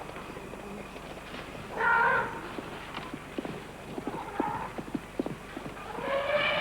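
Young elephant bull charging a herd of impala, trumpeting briefly about two seconds in and again near the end, with scattered hoof knocks from the running animals in between.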